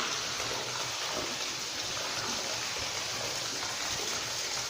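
Water trickling and dripping down inside a disused railway tunnel: a steady hiss of running water.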